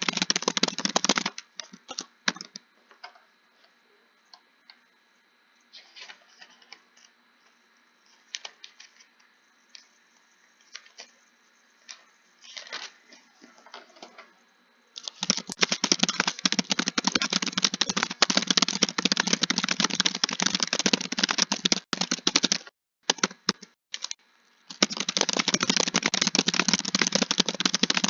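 Rapid typing on a computer keyboard, a fast continuous clatter of keystrokes. About a second in it thins to scattered, fainter single key clicks, then resumes at full speed about halfway through, with a brief pause shortly before the end.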